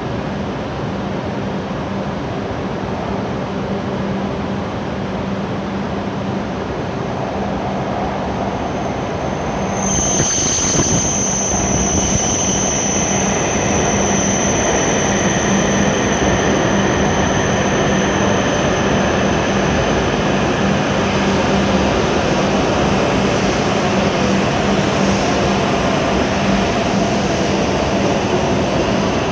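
W7 series Hokuriku Shinkansen train pulling into the platform and slowing. Its running rumble builds, then grows suddenly louder about a third of the way in as the train enters, with a high steady squeal for several seconds.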